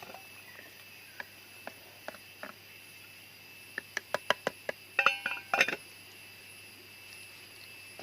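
Cookware clinking: scattered light taps, a quick run of about six clicks around four seconds in, then a burst of metallic clinks with short ringing about five seconds in. A steady high insect drone runs underneath.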